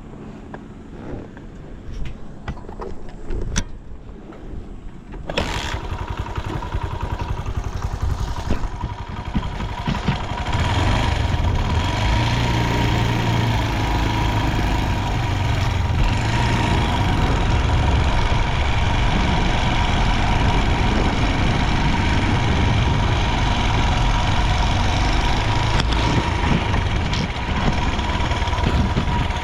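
Honda Ape 100's single-cylinder four-stroke engine starting suddenly about five seconds in after a few clicks, then building and settling into a steady idle by about ten seconds in. The running sounds even, with no abnormal noise, which the seller takes as a sign of an engine in good condition.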